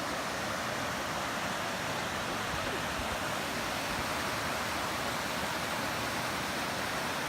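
Rushing water of a waterfall or river, a steady, even rush.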